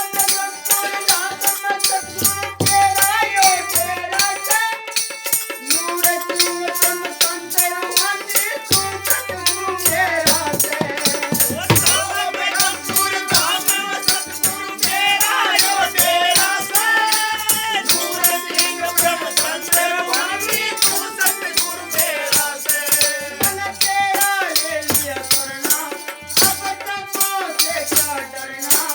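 Devotional shabad music: a melody carried over fast, steady rattling percussion, as in a shaken rattle or jingles keeping the beat.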